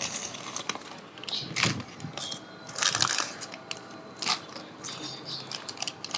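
Crinkling and crunching of snack packets and crisps, a run of sharp crackles with a few louder clusters about one and a half, three and four seconds in.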